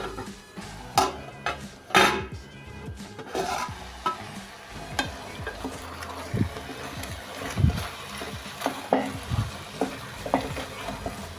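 Chicken pieces with onion and garlic being stirred in a metal cooking pot of hot oil: a utensil scraping and knocking irregularly against the pot over a steady sizzle.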